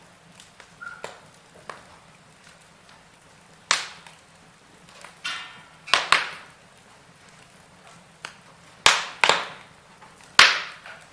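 Wood fire crackling: a low background broken by about half a dozen sharp pops, the loudest near the end, and a short hiss about five seconds in.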